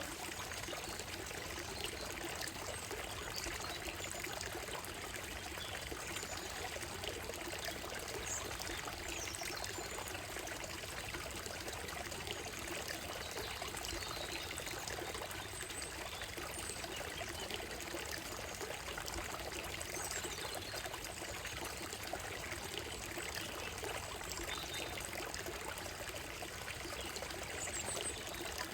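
Shallow stream running steadily over a gravel and stone bed, a constant trickling and splashing. A few faint bird chirps come and go high above the water.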